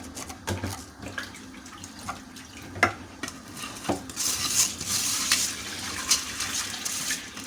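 A few scattered knocks of a pot and utensils, then from about halfway a steady hiss of running water.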